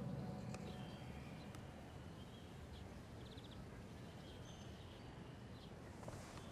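Faint birdsong: scattered short high chirps and one brief rapid trill over a quiet background hiss, as background music fades out in the first second or two.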